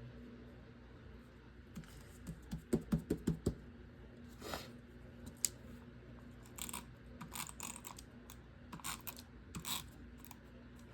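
Mini adhesive tape runner pressed and drawn over paper cut-outs in short, scratchy strokes, with a quick run of about six taps about three seconds in. The runner is not feeding well, which the user takes as a sign it may be running out.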